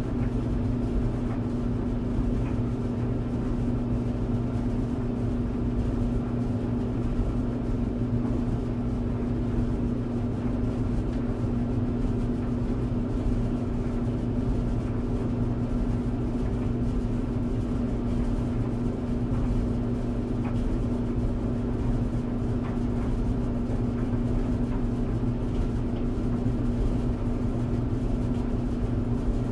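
Clothes tumble dryer running: a steady low drone with a constant hum and rumble from the motor and turning drum.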